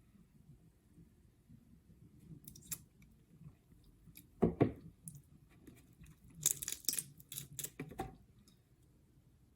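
Close-miked eating sounds of crab legs and shrimp: soft chewing, then a loud crunch about four and a half seconds in and a run of crackling, clicking sounds a couple of seconds later.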